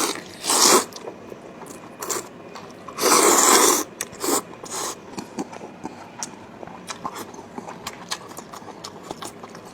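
Close-miked eating: a steady patter of small chewing and mouth-smacking clicks, with a few louder rushing mouth noises, the longest lasting almost a second about three seconds in.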